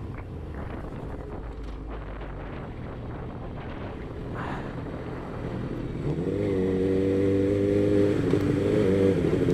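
Suzuki GSX-R motorcycle with an Akrapovic full exhaust being ridden, wind rumbling on the microphone. About six seconds in, the engine note rises and then holds steady and louder as the bike pulls.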